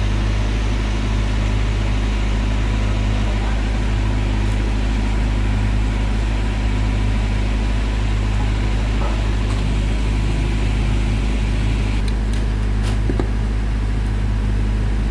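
An engine running steadily with an even low drone that does not change, with a few light clicks about twelve seconds in.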